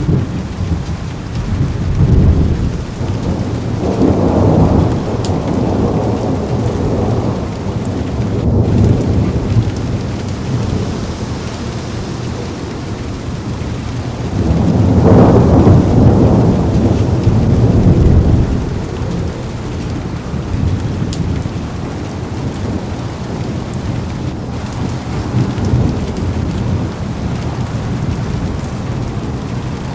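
Heavy rain on a car window with rolling thunder that swells several times over the steady downpour, the loudest rumble about halfway through.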